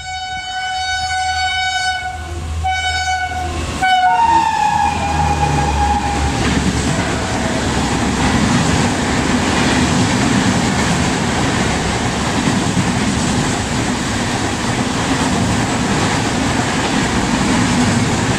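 A WAP5 electric locomotive's horn blares at one steady pitch with two short breaks. About four seconds in, its pitch drops as the locomotive passes and fades away. The express's passenger coaches then run past at speed with a steady rush and rattle of wheels on rail.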